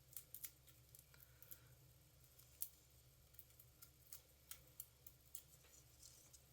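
Faint, irregular small clicks and ticks of hands handling paper and adhesive pieces at a craft table, a dozen or so short sharp ticks.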